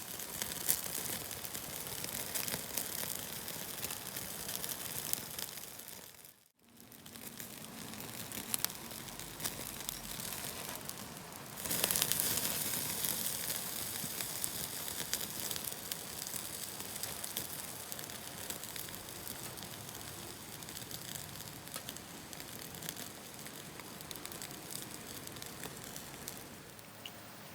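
A thick piece of food sizzling in a hot pan, a steady hiss with many small crackles. It drops out briefly about six seconds in and comes back louder just before the twelve-second mark.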